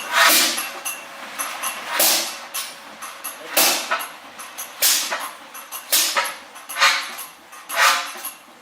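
Old slow-running diesel engine, its exhaust giving a puff roughly once a second at slightly uneven intervals.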